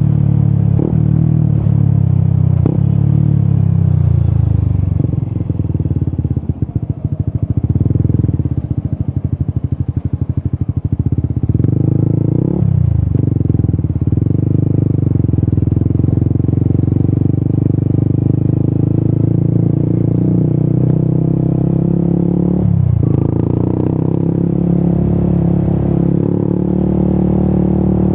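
Yamaha XSR 155's single-cylinder engine through an Akrapovic exhaust, heard while riding. It drops to a low, pulsing note for a few seconds, then picks up again, with two short breaks in the note, like gear changes, in the second half.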